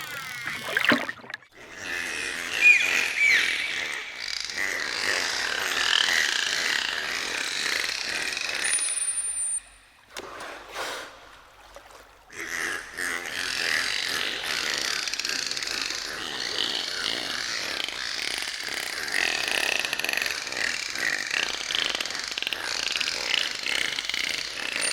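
Dolphins clicking and whistling: dense trains of rapid clicks mixed with short whistles, in two long stretches broken by a brief lull about ten seconds in.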